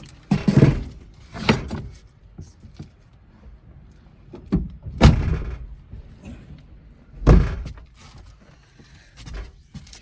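A pickup truck's camper topper and tailgate being opened and climbed into: four loud thumps and slams, about half a second, a second and a half, five seconds and seven seconds in, with lighter knocks between.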